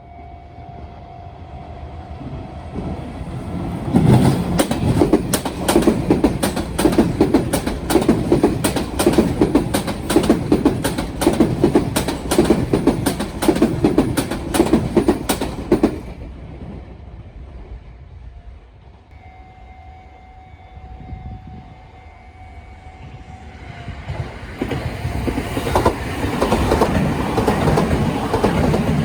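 A train passing over turnout rail joints at a level crossing: a loud, fast run of wheel clacks over the points for about twelve seconds that cuts off suddenly as the train clears. A steady crossing warning tone rings faintly before and after it, and another train's rail noise builds near the end.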